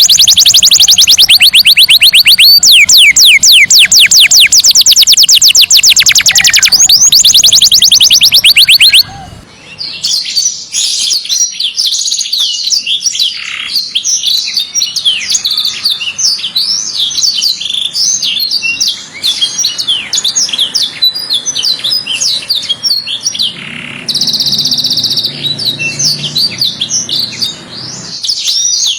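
Canary singing: a very loud, fast trill of repeated sweeping notes that stops abruptly about nine seconds in. It gives way to a quieter, varied song of chirps and trills, with a steady buzzing roll near the end.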